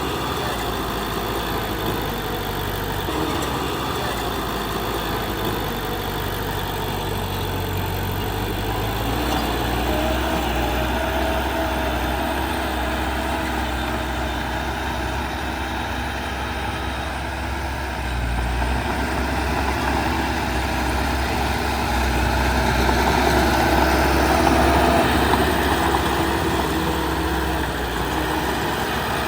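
Heavy construction-machinery diesel engines running continuously, their pitch and load shifting a few times and swelling louder about two-thirds of the way through.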